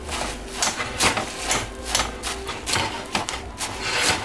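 Rice Krispies cereal being stirred into melted marshmallow in a bowl, the utensil scraping and knocking against the bowl in quick, irregular strokes, several a second.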